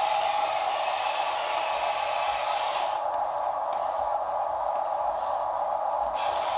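Small electric motor and gearbox of a toy RC dump truck running with a steady whine.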